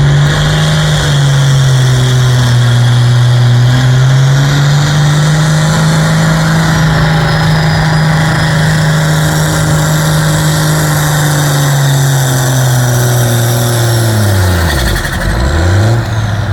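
Engine of a pulling competitor running hard at high, steady revs under load. About fourteen seconds in, the revs fall off sharply, then briefly climb again near the end.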